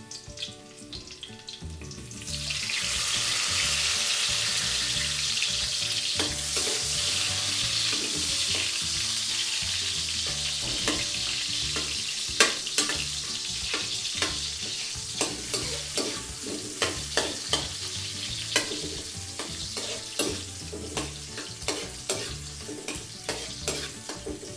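Chopped onions and garlic frying in hot cooking oil in a wok: a loud sizzle starts about two seconds in as the onions go into the oil, then settles into a steady frying hiss. From about halfway, a metal spoon repeatedly clinks and scrapes against the wok as the onions are stirred.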